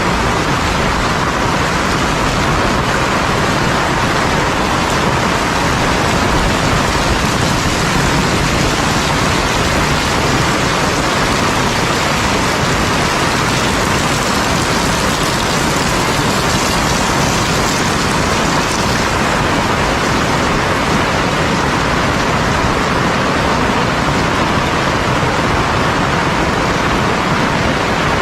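Heavy rain pouring steadily with no let-up.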